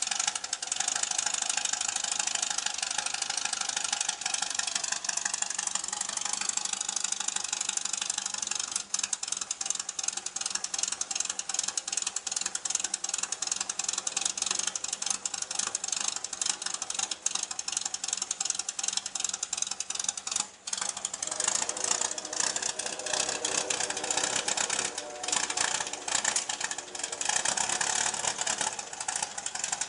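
1974 Volkswagen Beetle's air-cooled flat-four engine running on its twin Weber 34 carburettors, a fast, even exhaust beat. A little past two-thirds in, the sound dips for a moment, then runs on more unevenly.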